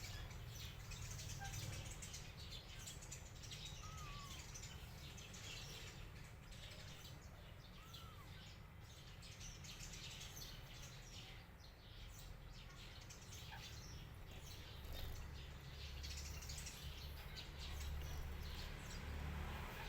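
Faint bird chirps: a few short, separate calls over a steady low background hum.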